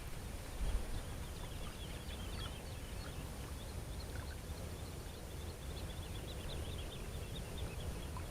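Strong wind rumbling on the microphone, with many small birds chirping in quick, high twitters.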